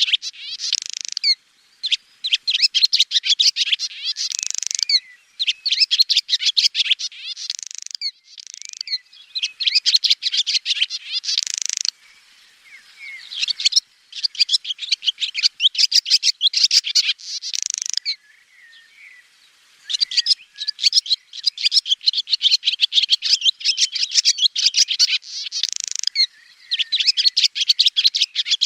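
Swallow singing: phrase after phrase of rapid, high twittering, each phrase two to four seconds long, with short pauses between.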